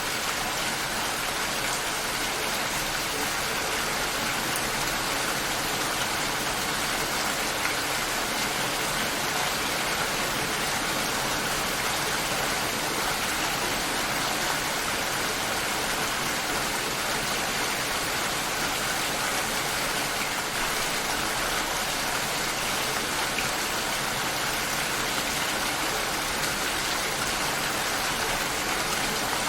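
Steady rain shower falling, an even hiss of rain with no breaks or single loud drops.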